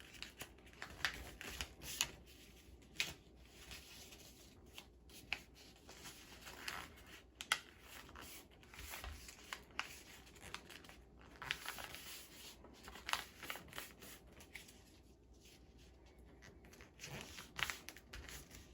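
A sheet of printer paper being folded and creased into paper airplane wings: irregular rustles and short crinkling swipes.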